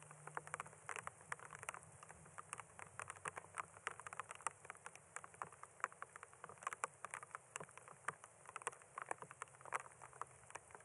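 Light desert rain pattering: scattered, irregular drops ticking one after another.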